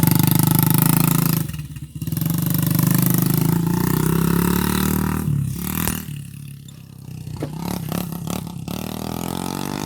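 Small dirt bike engine running under throttle. It is loud at first with a brief lift-off about two seconds in, drops away after about five and a half seconds, then picks up again near the end, with a few sharp clicks.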